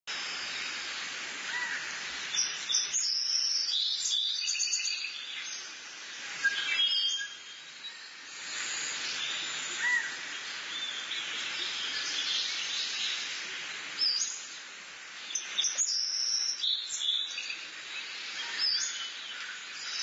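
Several birds chirping and calling over a steady hiss, with the calls busiest about three to five seconds in.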